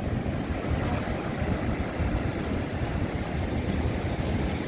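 Wind buffeting the microphone over the rush of ocean surf: a steady, unpitched low rumble that flutters in level.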